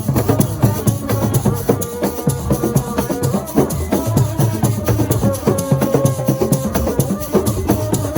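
Assiko music: a fast, dense rhythm of drums and a shaker, with a few held notes above it.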